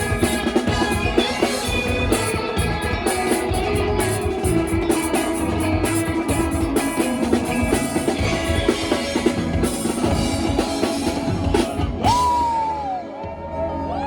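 Rock band playing live, with drum kit and guitars driving along. About twelve seconds in the song ends on a final hit, and a single gliding, wavering tone carries on over the fading ring.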